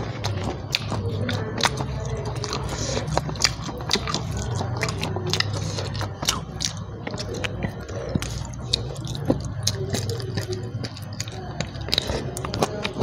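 A person chewing mouthfuls of rice and fried side dishes eaten by hand, close to the microphone. Many short, sharp mouth clicks come several times a second over a steady low hum.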